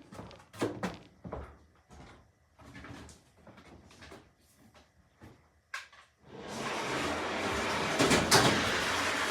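Scattered knocks and clunks of equipment being moved and handled. About six and a half seconds in, a steady, even running noise starts and carries on, with a louder knock or two near the end.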